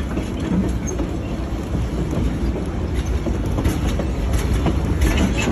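Narrow-gauge logging-railroad train heard from an open passenger car: a steady rumble of the wheels on the rails with scattered clicks and clatter. The locomotive is working only lightly while the train coasts downhill.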